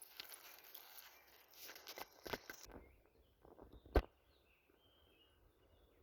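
Rustling and crackling, like steps or handling on forest ground, for the first few seconds. A single sharp click comes about four seconds in, then it is quiet apart from faint bird chirps.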